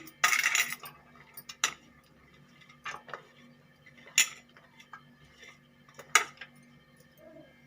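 Kitchen utensils knocking against a mixing bowl while chopped onion is added to gram flour and mixed for bonda batter. A short scrape comes first, then a few sharp clinks a second or two apart, the loudest about four seconds in.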